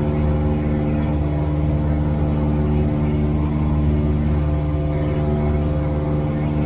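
Cessna 172R's four-cylinder Lycoming engine and propeller droning steadily in flight at constant power.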